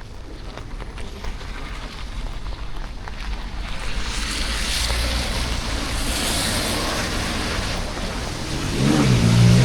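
Rain and wet-street hiss that swells louder from about four seconds in as traffic passes on the wet road; near the end a vehicle engine accelerates, its pitch rising.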